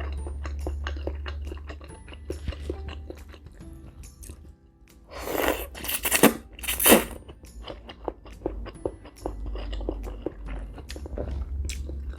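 Close-miked eating of shrimp tom yum instant noodles and prawns: many small crunches and chewing clicks, with three loud noisy bursts of mouth sound about halfway through.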